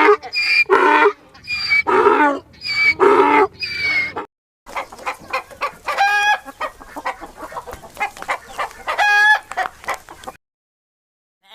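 Chickens clucking rapidly, with two longer drawn-out calls among the clucks. Before them, for about the first four seconds, a different series of pitched animal calls repeats about once a second.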